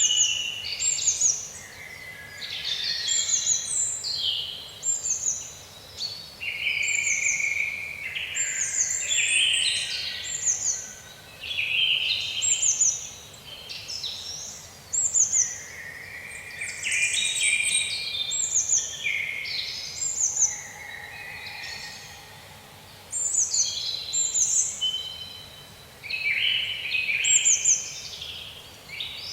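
Several songbirds chirping and singing at once: quick overlapping chirps and short falling whistles, over a faint steady hiss.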